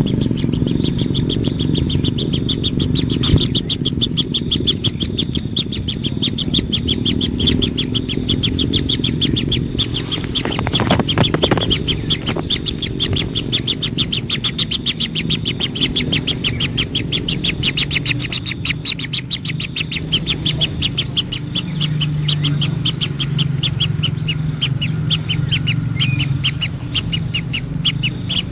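A bird calling in a fast, steady series of short high chirps, several a second, over a low steady rumble.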